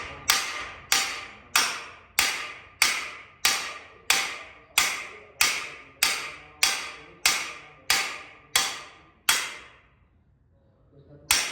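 Hammer striking a cam bearing installer tool, driving a camshaft bearing into its bore in an LS engine block: about fifteen evenly spaced blows, roughly one and a half a second, then a pause and one last blow near the end.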